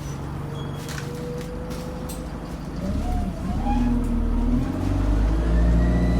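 Bus engine running, heard from inside the bus, with a thin high squeal over it that passengers find makes the bus sound awful. About three seconds in the engine grows louder, and a whine rises in pitch near the end.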